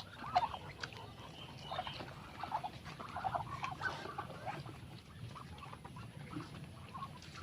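Backyard poultry calling: many short, soft calls in a scattered run, thinning out after about four seconds.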